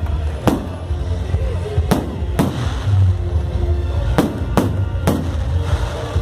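Fireworks going off: about six sharp bangs at irregular intervals, over background music with a steady low bass.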